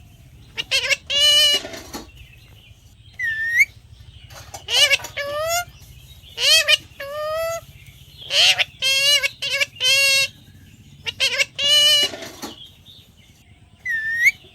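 Talking parrot repeating short, high, wavering calls in quick clusters, its mimicry of "mithu mithu", with a single rising whistle about three seconds in.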